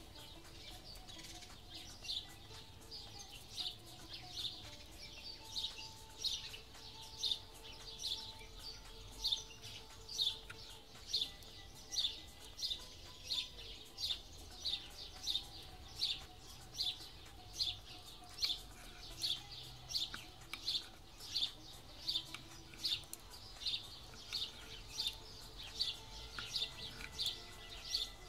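A small bird calling, one short high chirp repeated steadily, roughly every half second.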